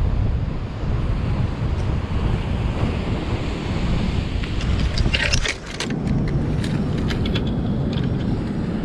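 Wind buffeting the microphone over the sound of surf, with a brief run of clicks and rattles about five seconds in.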